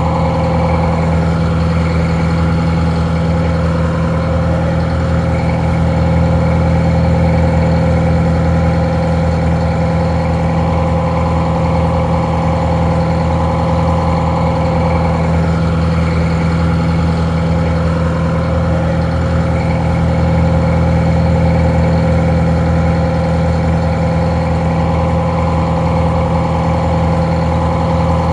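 Detroit Diesel 4-71 two-stroke diesel engine idling steadily, sounding a little muffled.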